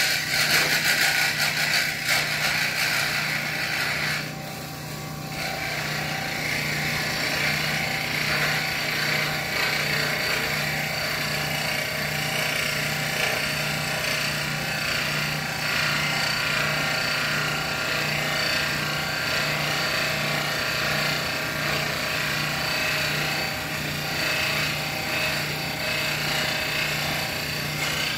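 A small power tool running steadily as it works the knife-making material, with a brief lull about four seconds in.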